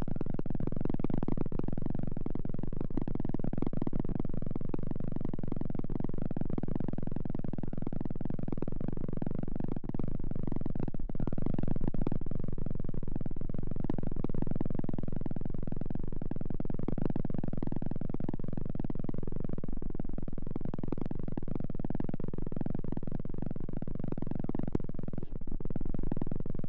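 Continuous close-miked ASMR trigger noise: a dense, steady rustling rumble held right against the microphone.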